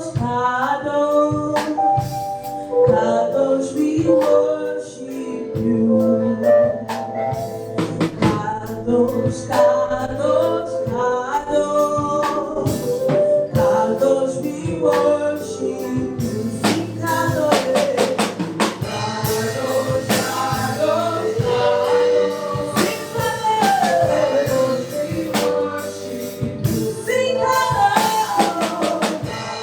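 Gospel choir singing a worship song with a live band, drum kit and tambourine keeping a steady beat.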